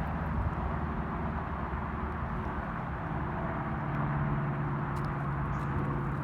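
A vehicle engine running steadily, a low hum that deepens slightly about four seconds in.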